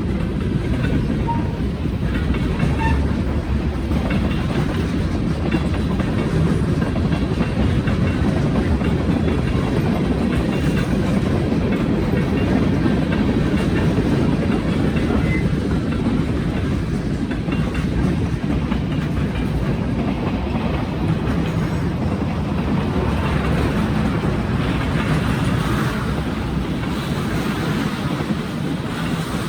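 Freight train cars rolling past, a steady rumble and clatter of steel wheels on the rails, easing slightly near the end.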